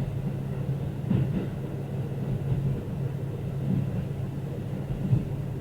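Diesel local train running along the line, heard on board: a steady low drone with a couple of brief knocks from the wheels on the track.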